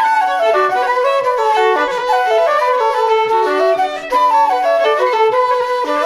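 Fiddle playing a fast traditional dance tune in a steady run of quick notes, with a flute likely joining in.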